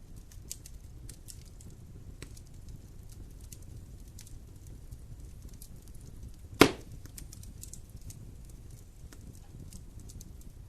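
Wood fire burning in a fireplace, crackling with scattered small snaps over a low, steady rumble of flame. One loud pop comes about six and a half seconds in.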